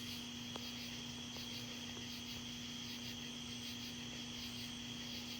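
Crickets chirping in a faint, steady, pulsing chorus, over a steady low hum.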